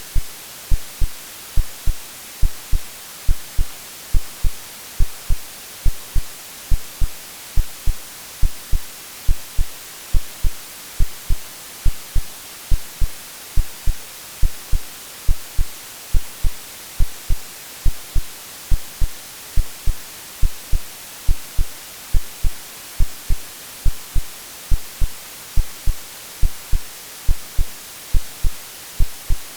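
AI-generated heartbeat sound: a steady, even rhythm of low double thumps (lub-dub) over a constant white-noise hiss, a womb-like sound made for soothing a baby to sleep.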